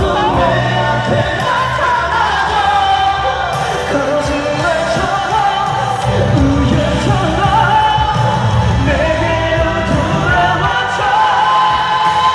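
Live pop song with male voices singing long, held melody lines over the band's accompaniment, recorded from the audience.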